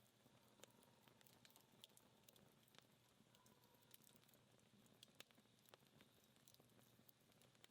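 Faint, dying wood fire: scattered small crackles and pops from burning-down firewood over a soft hiss.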